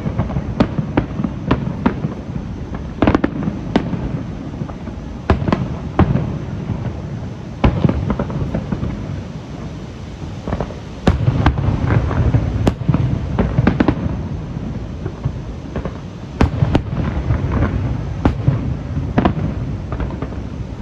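Aerial fireworks show: many sharp bangs of bursting shells over a continuous low rolling rumble, growing louder and denser about eleven seconds in.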